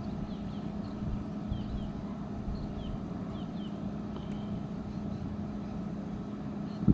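Portable fridge compressor running steadily at full speed on its max setting, a low hum with a constant tone. Faint bird chirps come and go above it, and there is a single click just before the end.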